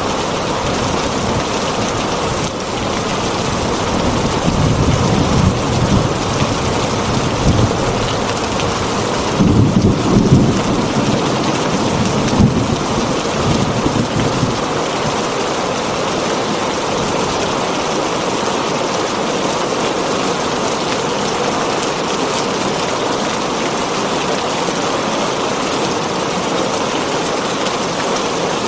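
Heavy rain falling steadily on a tin roof. Thunder rumbles low from about four seconds in until about fourteen seconds in, loudest around ten seconds.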